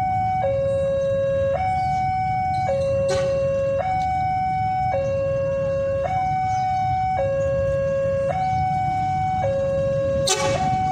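Two-tone electronic warning siren alternating steadily between a lower and a higher tone, each held about a second, over a low rumble. A brief sharp noise comes near the end.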